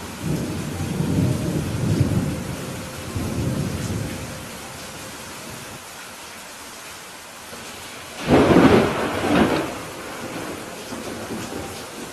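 Steady rain falling, with a low rumble of thunder rolling through the first few seconds and a louder, sharper thunderclap about eight seconds in that fades over a second or two.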